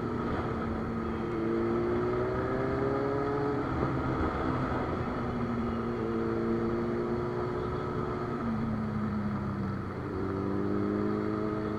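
Superbike engine running under load while riding, its pitch rising gently and then dropping at each gear change, several times over.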